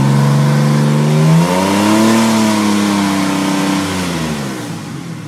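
2002 Ford Explorer engine and exhaust being revved while parked. The revs are held up, climb higher about two seconds in, then fall back to idle near the end.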